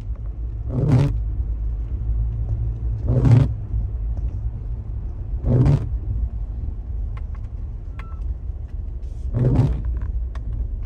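A Jeep being driven, heard from inside the cabin: a steady low engine and road rumble, broken four times by a brief louder whoosh.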